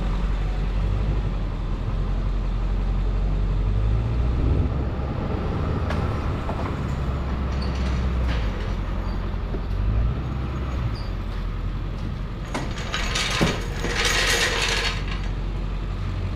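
A vehicle engine runs steadily at low revs, with a few mechanical knocks and clanks. About two-thirds of the way in comes a loud rough hiss lasting around two seconds.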